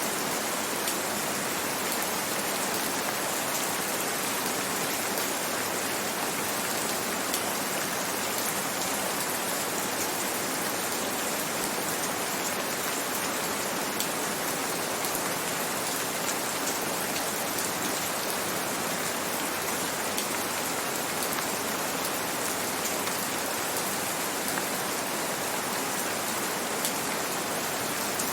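Gentle rain falling steadily, an even hiss of rain with scattered single drops ticking on a surface.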